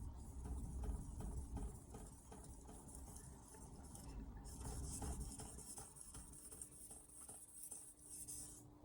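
Hatsukokoro carbon-steel knife drawn in repeated short strokes across an Altstone RIN 3000-grit splash-and-go whetstone, a faint scraping rub. From about halfway through, a steady high hiss runs alongside the strokes and cuts off suddenly near the end.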